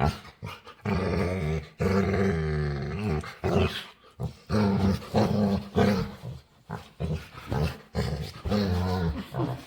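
A dog vocalizing in a run of drawn-out, growly whining moans that bend up and down in pitch, several in a row with short breaks. It is a playful dog's demanding 'talking', begging for attention and play.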